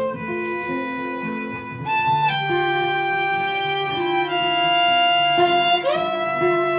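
Acoustic violin and acoustic guitar playing a free improvisation: the violin holds long bowed notes, with a higher note about two seconds in and an upward slide into a held note near the end, over lower guitar notes.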